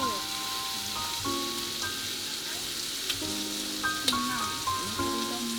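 Food sizzling in a pan, a steady hiss, under soft background music of held notes that change chord every second or two.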